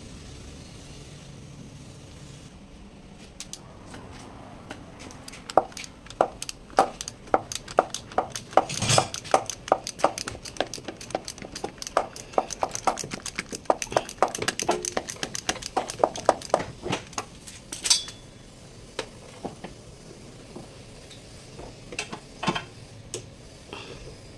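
Metal hand tools clinking against car parts: a run of sharp metallic clicks, a few a second, starting about five seconds in and thinning out to a few scattered clicks near the end.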